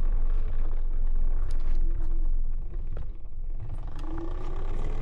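Electric dirt bike (Talaria Sting R MX4) being ridden over a dry lake bed, heard from its handlebars: a steady low rumble of wind buffeting and riding noise, with a faint motor whine that rises briefly twice, about two seconds in and again near the four-second mark.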